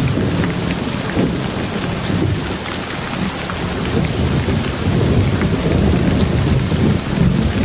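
Steady rain with scattered drop ticks, over a low, rolling rumble of distant thunder.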